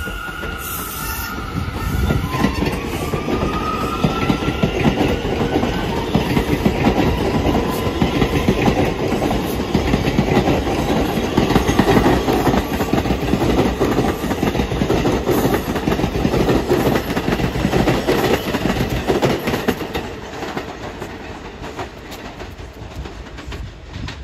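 A train passing close by at speed, its wheels clattering over the rail joints. A high whine rises in pitch over the first few seconds. The rumble builds in the first couple of seconds and eases off near the end.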